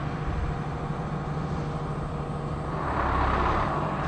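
Truck-mounted crane's engine running steadily under load with a low rumble while the load is swung. About three seconds in, a louder rushing sound swells and fades.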